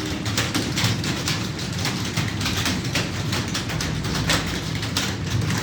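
Fast typing on a computer keyboard: a dense, irregular run of key clicks, several a second, over a low steady hum.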